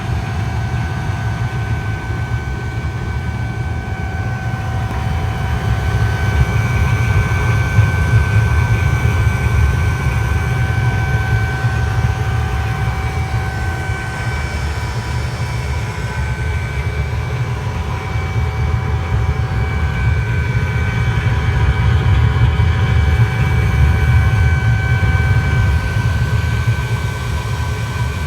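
OV-65 24-volt diesel-fuelled air heater running: a steady low rumble under a constant high-pitched whine.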